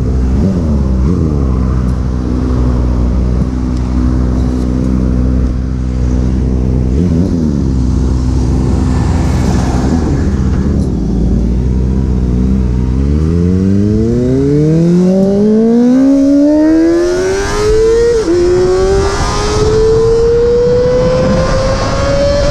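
Motorcycle engine running at a steady low speed, with a couple of brief blips. From about halfway it accelerates, its pitch climbing steadily, dipping once near the end as it shifts up a gear, then rising again.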